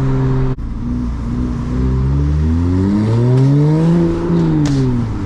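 Single-turbo BMW N54 3.0-litre inline-six accelerating. The engine note cuts off sharply about half a second in, climbs steadily for about three seconds, then falls as it eases off near the end.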